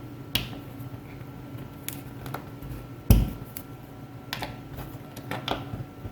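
Irregular small metal clicks and taps of an Allen wrench and a threaded furniture insert being handled and fitted into a hole in a CNC router table, with one duller knock about three seconds in.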